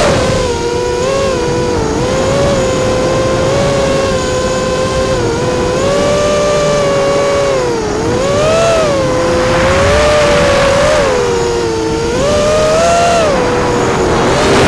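FPV racing quadcopter's four brushless motors and propellers whining in flight. Several close tones rise and fall together with the throttle.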